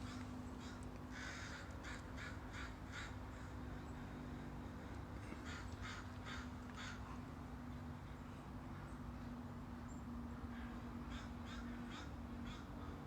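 A crow cawing in three bouts of quick, repeated harsh caws, over a steady low hum.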